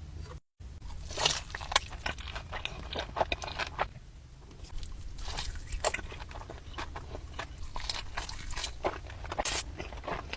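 Close-miked eating: crunchy bites and chewing of crispy fried food, irregular crackles throughout.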